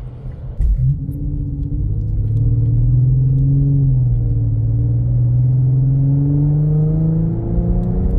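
Nissan VQ37VHR 3.7 V6 with a Remark axleback exhaust, muffler deleted, heard from inside the closed cabin of an Infiniti Q50 under acceleration. Its low note climbs slowly, dips a little midway, then climbs again. The sound is pretty low and kept down by the car's insulation.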